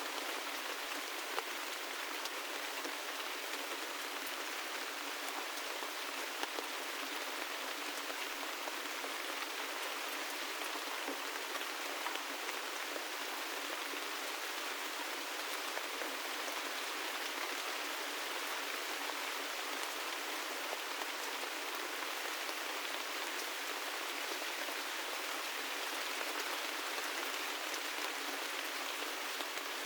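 Steady gentle rain falling: an even hiss of rain with scattered single drop ticks.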